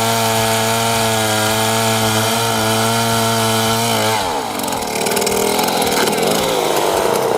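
Large Stihl 090AV two-stroke chainsaw running at a steady high speed, cutting into an oak stump. About four seconds in its pitch drops away, and a rougher, noisier sound with scattered ticks follows.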